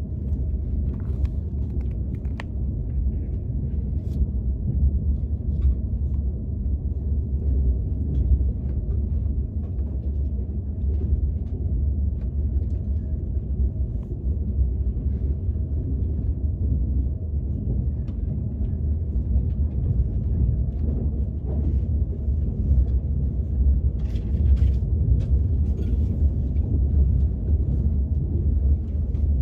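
Steady low rumble of a KTX high-speed train heard from inside the passenger car, with faint scattered small clicks and taps over it.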